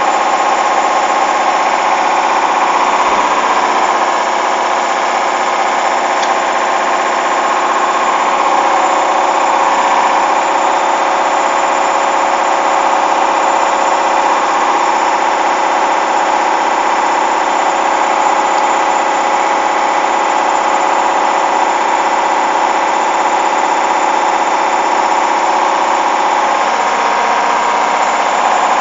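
Hoover washing machine spinning, its motor running with a loud, steady whine that holds unbroken throughout.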